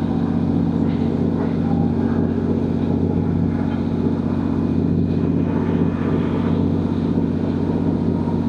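Class 150 diesel multiple unit's underfloor Cummins diesel engine running steadily under power, heard from inside the carriage as a steady low drone.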